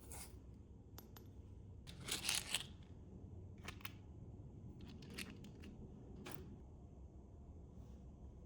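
Small parts being handled on a work surface: scattered light clicks and taps, with a short burst of rustling and clicking about two seconds in.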